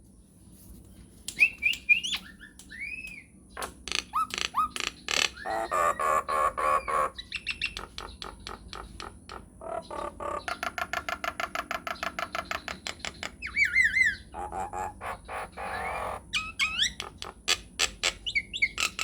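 Nias hill myna singing a varied song: whistled up-and-down glides, harsh nasal squawks, and long rolls of rapid even clicks, the longest running for several seconds in the middle.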